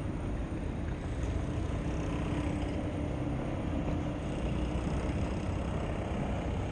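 Cold sea wind buffeting the microphone: a steady, fluttering low rumble with a rush of noise over it.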